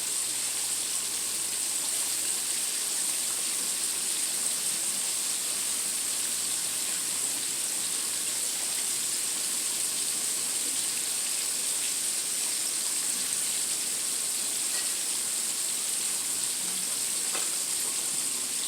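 Chicken wings frying in hot oil: a steady, even sizzle.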